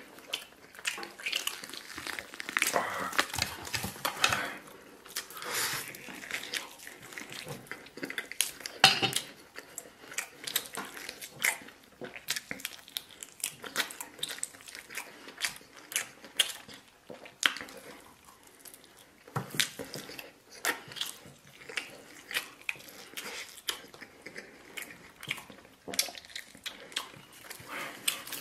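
A person biting and chewing roast duck, close to the microphone: a dense, irregular run of mouth clicks and smacks, with a louder snap about nine seconds in.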